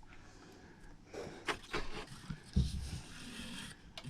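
Brushing and scraping at caked dirt on an RV air conditioner, short scratchy strokes starting about a second in, with a couple of low knocks near the middle.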